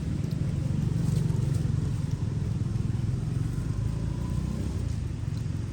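A motor engine running, a steady low rumble that swells slightly about a second in and then eases off.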